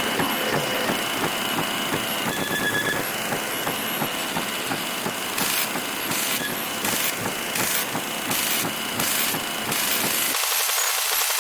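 Harsh crackling hiss of a poor television signal, with a high pulsing buzz about twice a second through the middle; near the end the sound turns thinner and hissier as the low end drops out.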